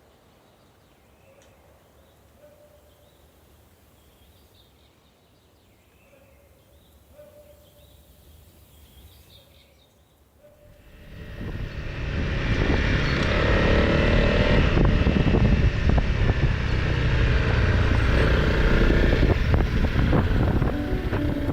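Faint, low sound for about ten seconds. Then, about eleven seconds in, the loud running of a single-cylinder dual-sport motorcycle engine with wind rushing over the microphone as the bike rides along the off-road track.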